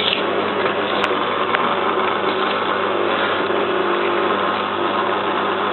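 Zanussi FLA1002W washing machine running steadily between its drain and its first spin, a continuous mechanical whirr over a low hum, with a sharp click about a second in.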